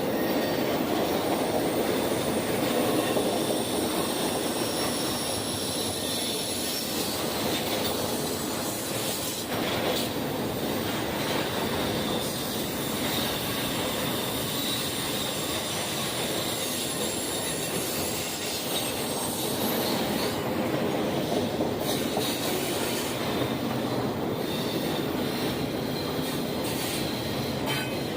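Train rolling past on the rails: a steady rumble of wheels on track, with thin high-pitched wheel squeal and occasional clicks over rail joints.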